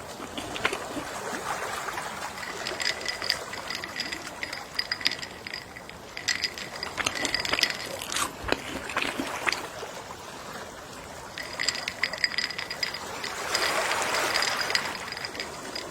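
Gentle sea waves washing on the shore, swelling louder about three-quarters of the way through. Scattered light clicks and a faint high ringing come and go over the wash.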